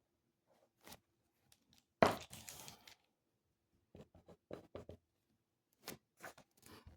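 Small handling noises in a quiet small room: a sudden crinkling, tearing-like sound about two seconds in, then several short light knocks and rustles.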